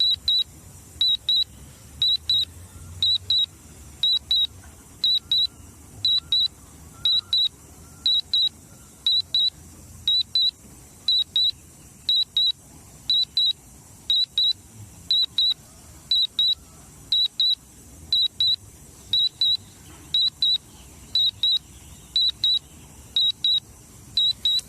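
Drone remote controller sounding a warning alert: high-pitched double beeps repeating about once a second, over a faint low rumble.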